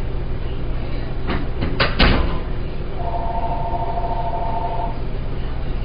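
Vehicle running with a steady low drone. A few sharp knocks come about one and a half to two seconds in, and a two-note horn-like tone is held for about two seconds near the middle.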